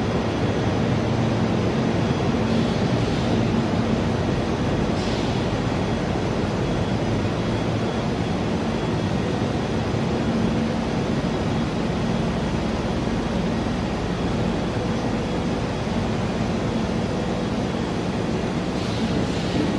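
Steady machinery noise from a rubber extrusion and microwave hot-air curing line: a constant hum over an even rushing noise, with no change in level.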